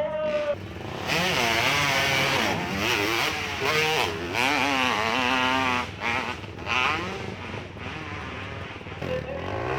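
Hill-climb motorcycle engine revving hard, its pitch swinging up and down again and again as the throttle is worked.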